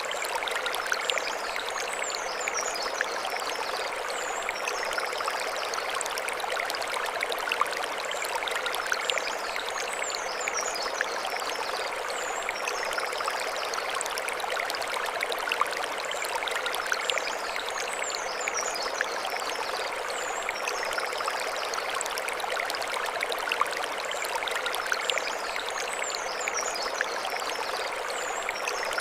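Mountain stream flowing over stones: a steady rush and trickle of water. A high chirping phrase recurs about every eight seconds.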